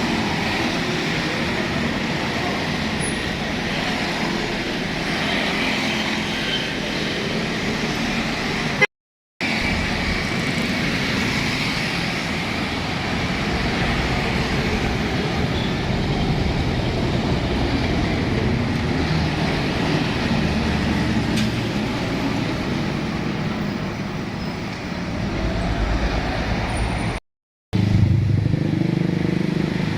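Road traffic: vehicle engines and tyre noise passing steadily, with a heavier low engine rumble late on. The sound cuts out completely twice, each time for under a second.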